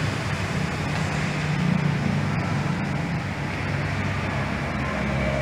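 A motor vehicle's engine idling, a steady low hum.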